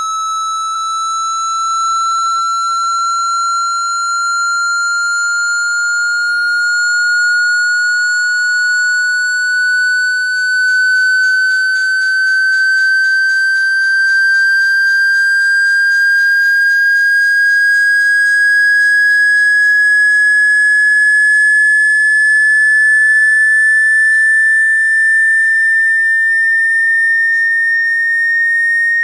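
A generated pure sine tone, the kind played through a phone's speaker to vibrate water out of it, sounding steadily and sweeping slowly upward in pitch.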